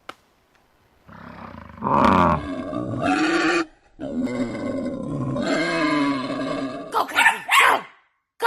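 An animal calling: two long calls lasting a few seconds each, then several short sharp calls near the end.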